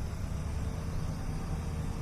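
Passenger train running with a steady low rumble and a faint steady hum.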